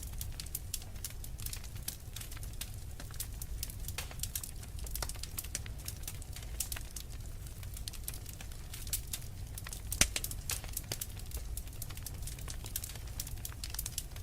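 Wood fire crackling in a fireplace: a steady low rumble with many small pops, and one sharper, louder pop about ten seconds in.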